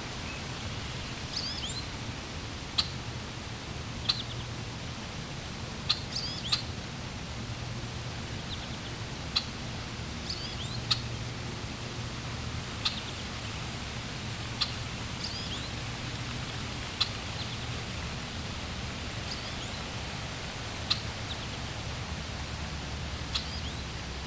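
Steady rush of flowing water with small birds chirping over it: short sharp chirps every second or two, some with quick rising and falling notes.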